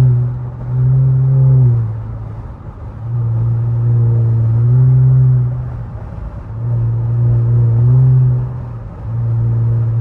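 Exhaust drone of a twin-turbo Infiniti Q50's 3.0-litre V6 cruising at highway speed, a low steady note that swells and fades about four times.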